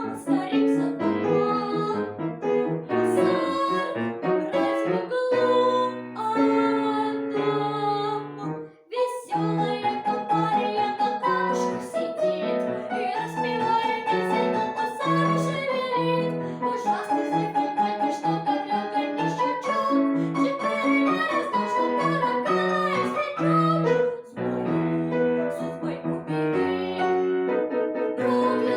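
Piano playing a brisk piece of many short notes and chords, with a brief break about nine seconds in.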